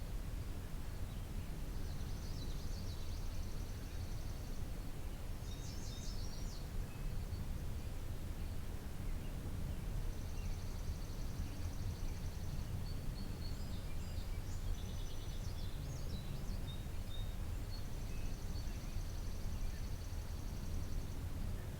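Birds singing in a garden: a high trill about two and a half seconds long comes three times, with scattered short chirps between, over a steady low rumble.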